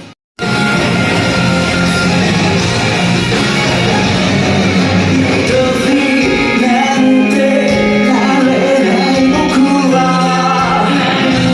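Live rock band playing with a lead singer, loud and echoing in a large hall. The sound cuts out completely for a moment at the very start, then the full band and vocals come back.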